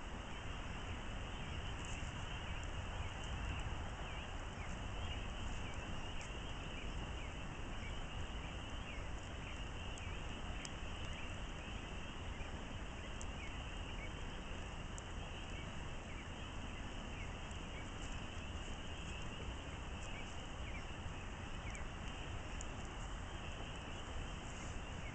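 Wood campfire crackling, with scattered sharp pops, over a steady high-pitched chirring in the background.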